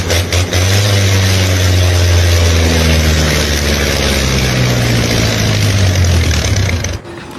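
A heavy engine running loudly at a steady speed, its pitch drifting slightly, cut off abruptly near the end.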